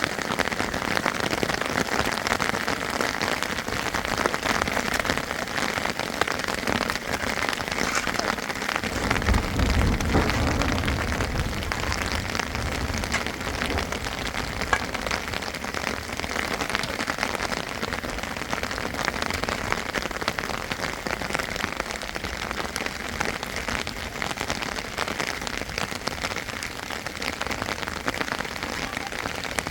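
Heavy rain falling, a steady dense hiss and patter of drops. About nine seconds in a low rumble swells for a few seconds under the rain, then fades.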